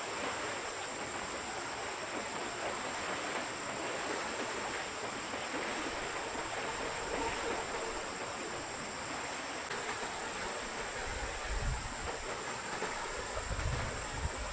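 Stream water flowing steadily in an even rushing wash, with a faint steady high hiss above it. Two low rumbles come in near the end.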